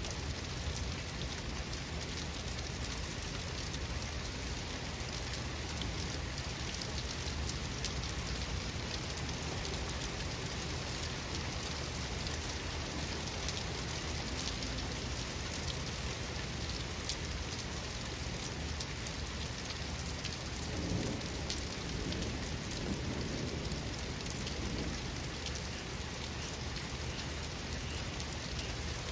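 Steady rain falling, with dense pattering drops, over a low rumble of distant thunder that swells briefly about two-thirds of the way in.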